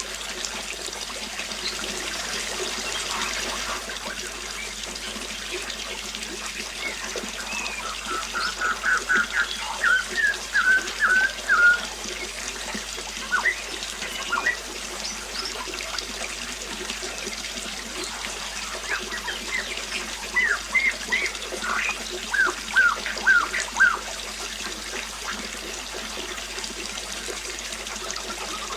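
Water trickling steadily while a bird calls in two bouts of quick, short, repeated notes, the first about a third of the way in and the second past the middle.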